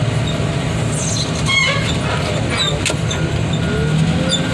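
Heavy equipment's diesel engine running steadily under load while pushing a scrap car body, with squeaky metal scraping and a sharp click between about one and three seconds in.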